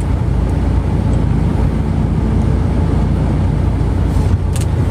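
A steady low rumble of vehicle noise, with a short click about four and a half seconds in.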